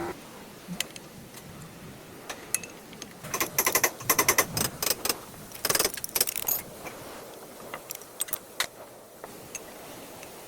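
Metal tools and brake parts clinking and rattling as they are handled, in short clusters of sharp clicks, the busiest about four and six seconds in.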